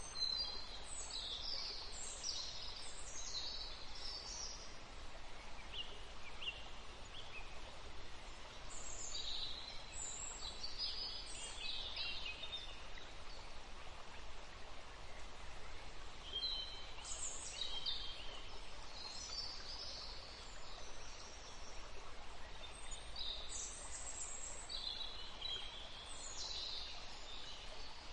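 Small birds chirping in short high-pitched bursts every several seconds over a faint steady hum.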